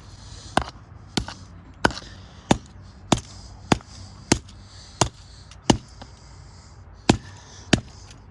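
Repeated hammer blows striking a smashed iPhone 4, about a dozen sharp strikes roughly two-thirds of a second apart with one short pause partway through.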